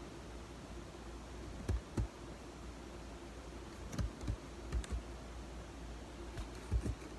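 Mouthful of cornstarch being chewed: short crisp crunching clicks, mostly in pairs, several times over a low steady background hum.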